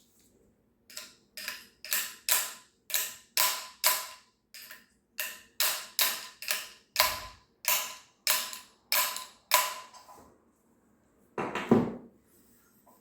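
A run of sharp mechanical clicks, about two a second for some nine seconds, each dying away quickly. A single louder, heavier knock comes near the end.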